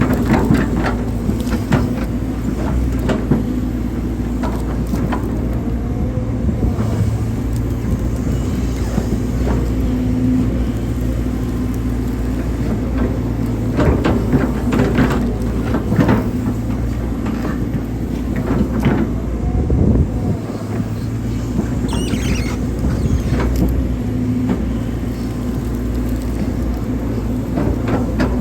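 Hydraulic excavator's diesel engine running steadily under load, with repeated knocks as the machine digs.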